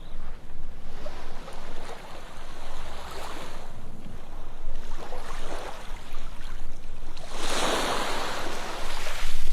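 Ocean waves washing up on a beach in a series of swells that rise and fall, the largest surge of surf coming near the end.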